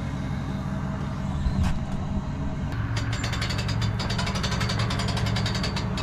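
A truck engine runs steadily with a low hum. About three seconds in, a fast, even clicking joins it and keeps going.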